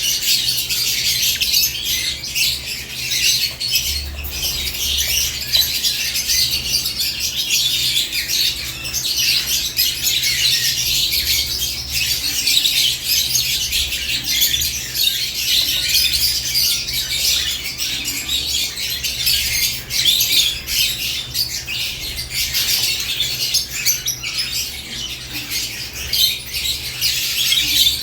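Several caged lovebirds chirping and chattering without pause, a dense, high-pitched twittering with sharp squawks mixed in.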